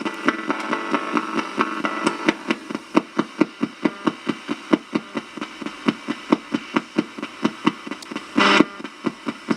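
Spirit box scanning through radio stations: a rapid, choppy stream of short radio blips and static, about four or five a second. A louder burst of static comes about eight and a half seconds in.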